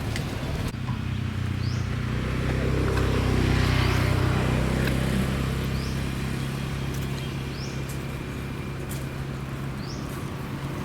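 A motor engine's steady low hum, swelling to its loudest a few seconds in and then slowly fading, as it passes by. A few short high chirps sound over it.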